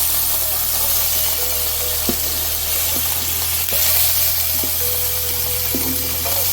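Chopped onion frying in melted butter in a pan: a steady sizzle, with a few light clicks.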